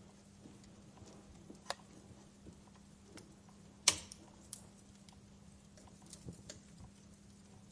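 Wood fire crackling in a fireplace: scattered sharp pops and ticks, with one loud snap about four seconds in.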